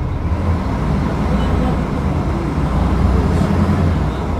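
Diesel engine of a Mercedes-Benz O500UDA articulated bus (Caio Millenium BRT body) running with a steady deep rumble, growing a little louder about three seconds in.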